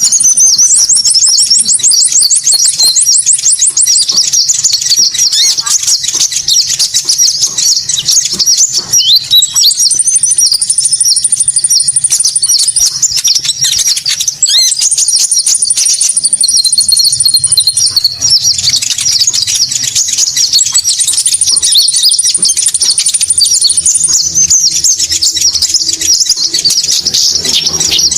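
Konin bird lure calls: a loud, dense stream of high chirps and twitters, with a thin, rapid, higher trill returning every few seconds above them.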